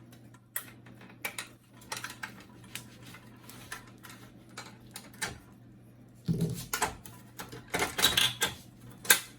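Plastic clicks and clatter from an HP LaserJet P1102 printer's side panel being unlatched and pried off its plastic locks: scattered sharp clicks, a busier run of rattling from about six seconds in, and a sharp snap near the end.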